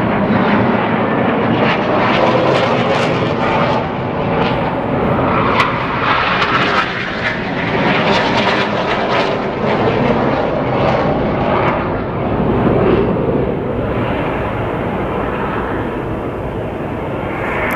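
Continuous loud roar of Northrop F-5E Tiger II jet fighters' turbojet engines during a formation display, with a crackling edge, growing duller near the end.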